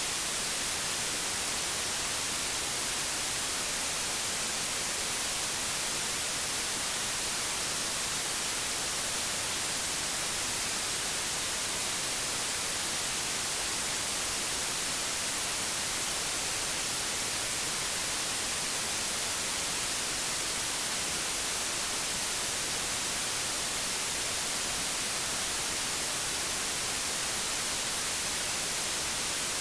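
Analogue television static: a steady, even hiss, brightest in the treble, that does not change.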